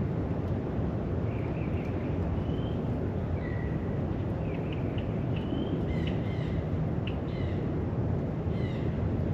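Small birds giving short, high chirping calls, more often in the second half, over a steady low rumble of outdoor background noise.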